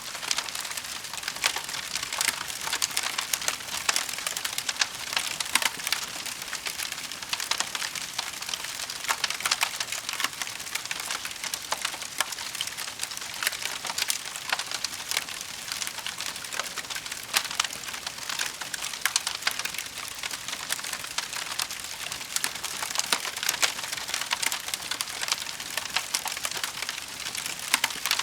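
Wood fire crackling: a dense, continuous run of sharp pops and snaps over a steady hiss.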